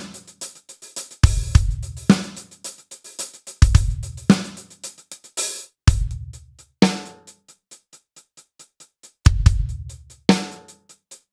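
Acoustic drum kit playing a two-bar groove: a steady sixteenth-note hi-hat over bass drum thumps and a snare backbeat, with a brief cymbal wash about five seconds in.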